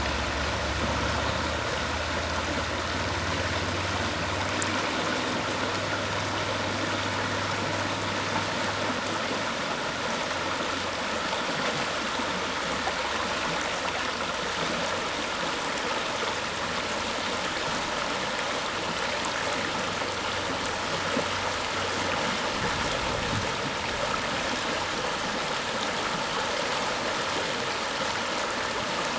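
River water rushing and gurgling steadily. A low hum sits under it for most of the first twenty seconds, then fades away.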